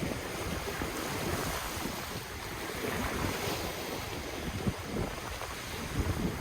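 Ocean waves washing on the shore as a steady surf hiss, with gusty wind rumbling on the microphone.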